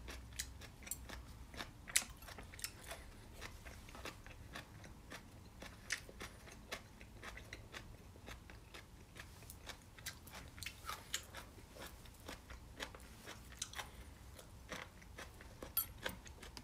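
Faint chewing with a mouthful of food: soft, irregular wet clicks and small crunches, several a second.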